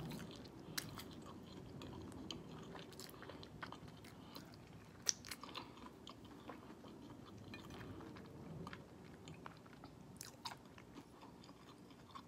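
A person chewing a mouthful of fried-chicken and glazed-donut sandwich, faint, with soft scattered mouth clicks and one sharper click about five seconds in.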